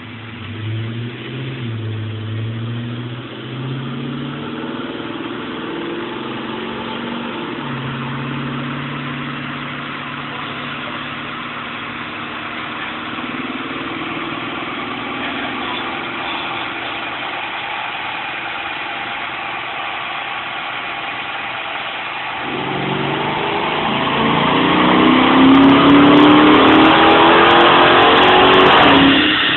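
Dodge Challenger's Hemi V8, fitted with an aftermarket intake and custom exhaust, run on a chassis dyno. The revs change a few times at first, then it runs steadily, and about three-quarters of the way in it goes into a full-throttle pull. The pitch climbs for about six seconds and gets loudest, then the throttle is shut suddenly near the end.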